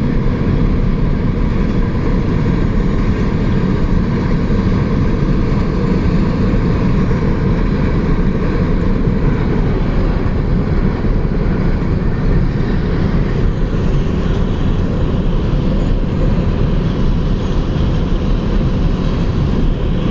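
Freight train of empty coal cars rolling by, a steady rumble of wheels on rail.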